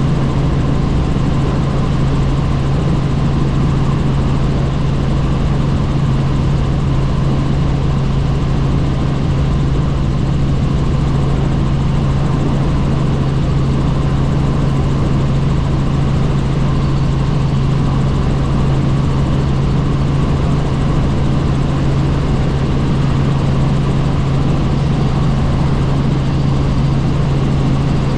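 Helicopter in flight making a loud, steady drone with a strong low hum that does not change.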